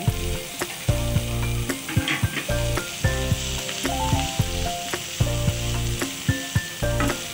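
Background music with a bass line and melody plays over shredded cabbage, carrot and onion sizzling in hot oil in a pan. A wooden spatula stirs the vegetables, and the sizzle grows a little brighter about halfway through.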